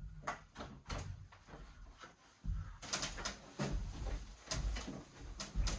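Scattered knocks and bumps with some low rumbling as a wooden beam is handled and set down on a ladder.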